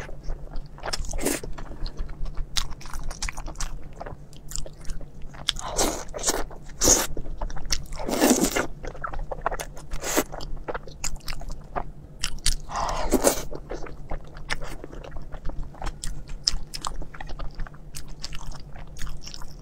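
Close-miked mouth sounds of eating soft crab roe soup dumplings in chili sauce: biting and wet chewing with many irregular sticky clicks and a few longer wet sounds.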